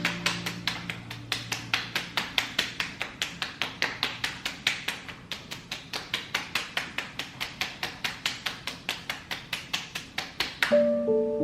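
Rapid, even tapping, about five taps a second. Background music fades out in the first two seconds and soft piano music comes in near the end.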